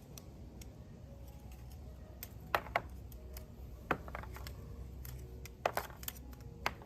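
Scissors snipping the thorny stems of a Cherokee rose bush to get at its hips: about six sharp clicks, two close pairs and two single ones, over a low steady rumble.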